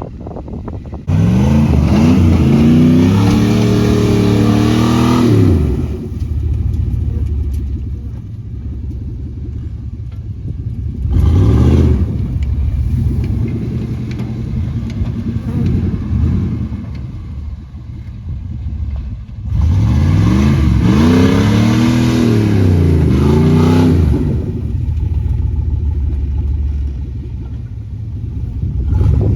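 1996 GMC K1500's 5.0-litre Vortec V8 through a custom exhaust, revved hard in two long pulls of several seconds each, the pitch climbing and falling within each pull, with a short rev between them and the engine idling in the gaps.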